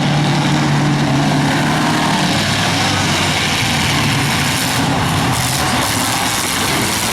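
Demo car engines idling and running, a steady drone that drops to a lower pitch about two seconds in.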